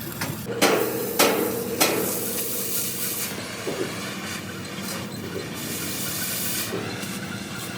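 Three sharp hammer blows on steel about half a second apart, each ringing briefly, then a steady hiss of shop noise.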